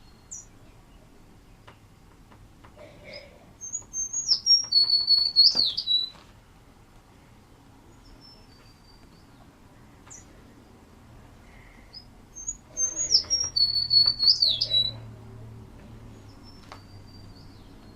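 American tree sparrow singing: two high, sweet song phrases, each about two seconds long, made of sliding notes and a held whistle, with a few faint single notes in between.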